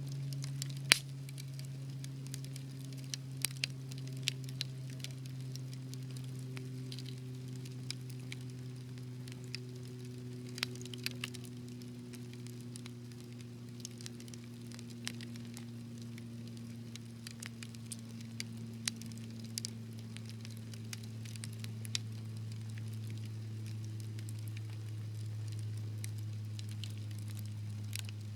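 Wood fire crackling, with irregular sharp pops and snaps, the loudest about a second in, over a steady low rumble.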